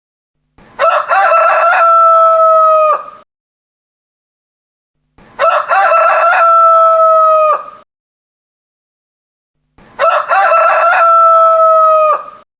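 Rooster crowing three times, about four and a half seconds apart. Each crow starts with short broken notes and ends in a long held note that drops off at the end, and all three crows look identical.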